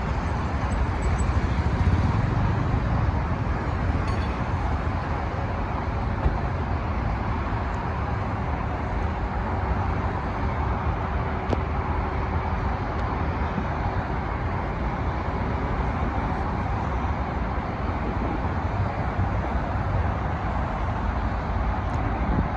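Steady road traffic noise, a continuous low rumble with no single engine standing out.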